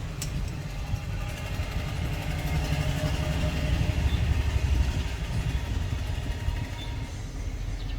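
A steady low rumble like engines running, with a few faint steady tones above it.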